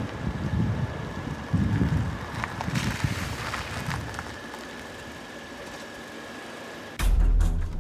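Car interior noise: a running engine with low rumbles and a faint steady high tone. Near the end, music with a heavy bass cuts in suddenly.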